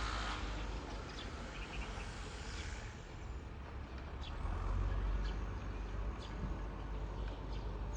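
Short, high chirps from a small bird, repeated every second or so, over a steady low rumble of city traffic; a passing vehicle's hiss fades out in the first few seconds.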